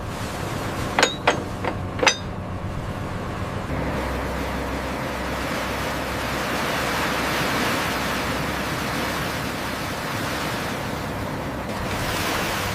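A steady machine hum with four quick metallic clanks about a second in, the third faint. It then gives way to a rushing wash of sea-like noise that swells and eases off.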